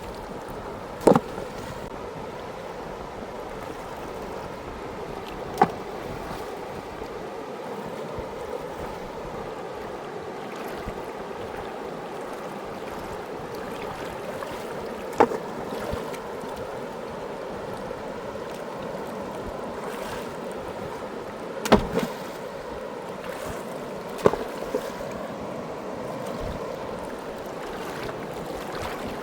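Fast mountain river rushing steadily, with five sharp knocks at uneven intervals.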